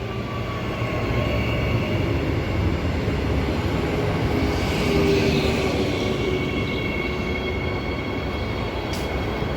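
Transperth electric multiple-unit passenger train at the platform, with a steady low rumble and a faint high whine that grows stronger about halfway through.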